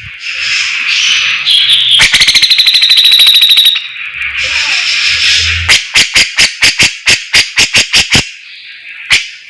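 Song of the cage bird sold in Indonesia as the 'fighter' (burung fighter): high buzzy chattering, a fast rattling trill about two seconds in, then a run of sharp repeated chips about four a second.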